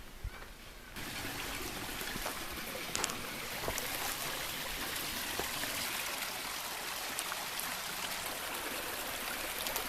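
Stream water running steadily. It starts abruptly about a second in, after a quieter moment with a few light clicks.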